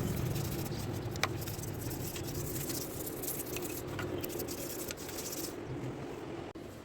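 Buffing wheel running against a Royal Enfield Bullet engine part, a steady hum with dense scratchy crackling of the part on the wheel and one sharp click about a second in.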